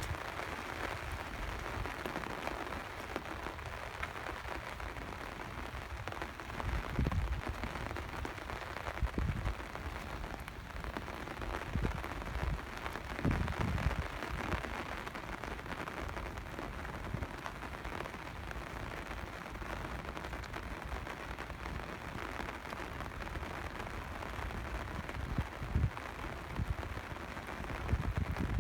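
Steady rain falling, an even hiss, with a few dull low thumps every several seconds.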